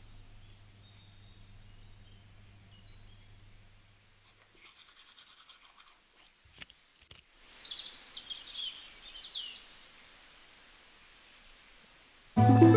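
Birds chirping, with a louder flurry of short calls about halfway through, just after a couple of sharp clicks. Soft background music fades out at the start and comes back in at the very end.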